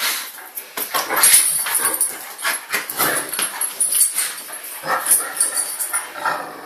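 Large dogs vocalising in irregular short bursts.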